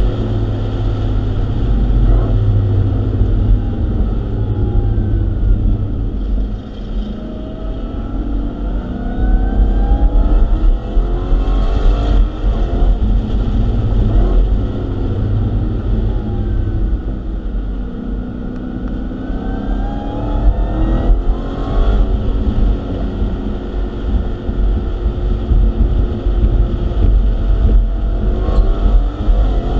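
Dodge Hellcat Redeye's supercharged V8 heard from inside the cabin at track pace, the engine pitch climbing several times under hard acceleration and falling away as the car slows for corners, over constant wind and road noise.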